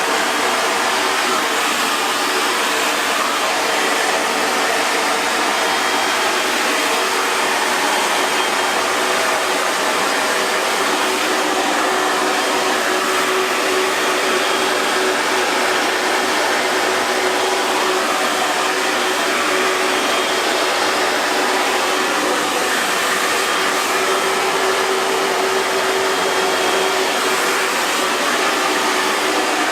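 Hair dryer running steadily: an even rush of blown air with a faint motor hum underneath, unchanging throughout.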